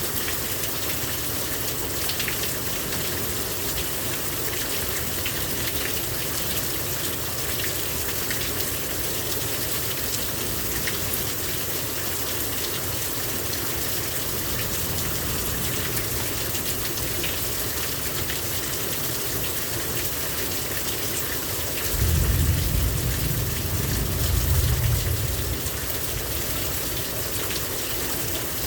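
Heavy rain pouring down steadily. About three-quarters of the way through, a low rumble of thunder rises for a few seconds, with a second swell near its end, then fades back under the rain.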